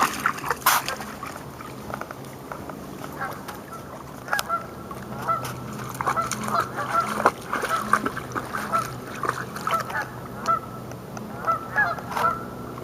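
Water birds calling over and over in short, clipped calls, several a second, from about four seconds in, after a few sharp clicks near the start.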